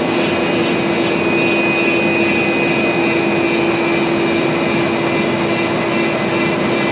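CNC router spindle running while cutting corrugated plastic board, a steady whine over an even rushing noise.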